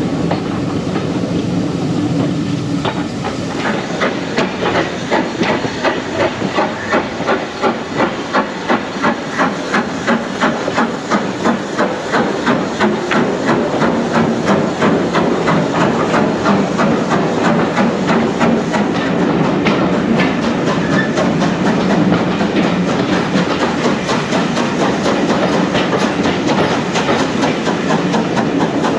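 Steam train running, with hiss from the locomotive and a regular beat that quickens as the train gathers speed, then merges into steady running noise.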